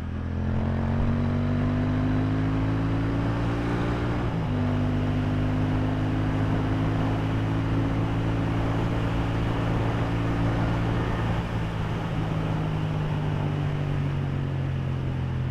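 Motorcycle engine pulling under acceleration, its pitch rising, with a short break about four seconds in as it shifts up a gear, then rising again and settling to a steady cruise, with wind rushing past.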